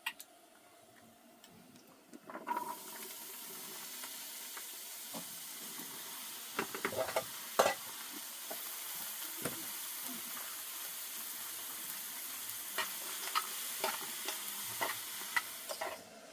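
Food sizzling as it fries in a pan, with scattered clicks and scrapes from stirring. The sizzle starts abruptly a couple of seconds in and stops just before the end.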